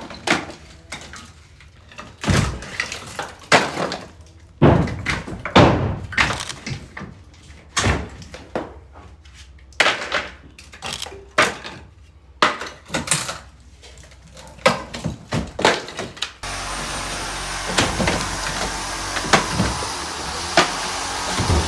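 Irregular knocks, thuds and clatters of building or demolition work, some sharp and loud, a few each second. About three-quarters of the way through, a steady background noise cuts in abruptly and a few knocks carry on over it.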